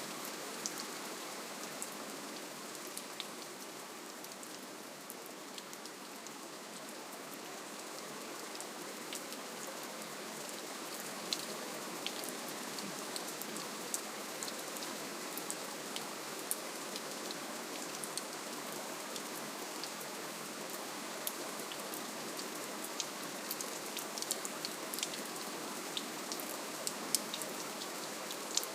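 Steady, gentle rainfall: an even hiss of rain with many small, scattered raindrop ticks on a surface.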